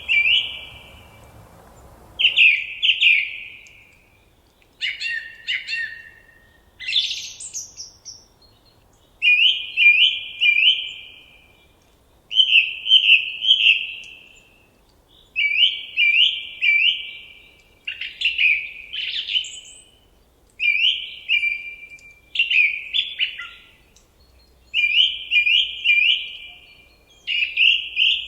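A songbird singing short, loud phrases of quick chirping notes, one phrase every two to three seconds with brief pauses between them.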